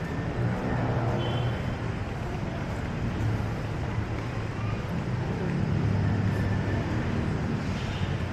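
City street traffic: engines of passing vehicles running and swelling as they go by, over a steady urban hum, with faint voices of passers-by.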